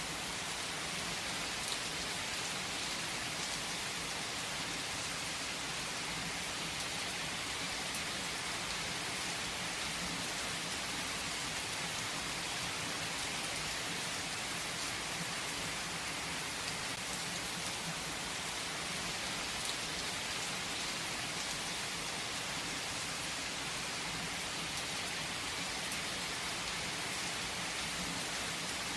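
Heavy rain falling steadily on a tree's leaves: an even, unbroken hiss with scattered drop ticks.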